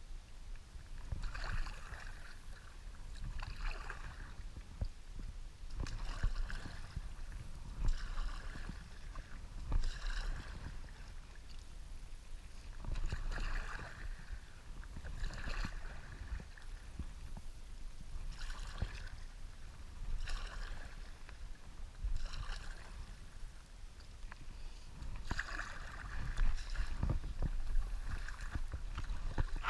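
Stand-up paddle blade dipping and pulling through river water, a splash every second or two in an uneven rhythm, over a low rumble of wind on the microphone.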